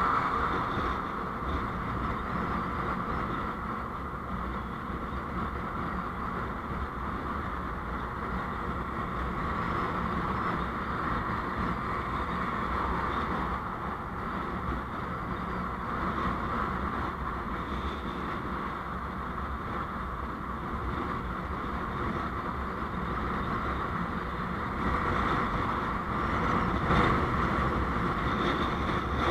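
Steady engine and road noise of a vehicle driving along a road, swelling slightly near the end.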